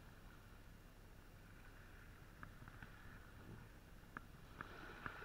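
Light rain: a faint steady hiss and low rumble, with a few scattered drops ticking on the camera in the second half.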